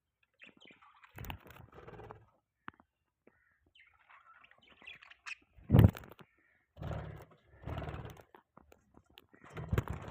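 Pet budgies chirping and chattering in short, irregular bursts, with a sharp loud sound about six seconds in.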